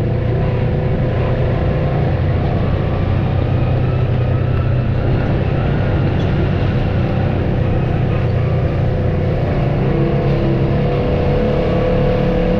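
Off-road vehicle engine running steadily at low speed, with a whining tone that grows louder about ten seconds in.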